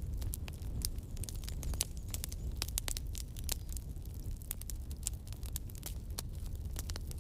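Campfire burning, wood crackling with irregular sharp pops over a steady low rumble of flames.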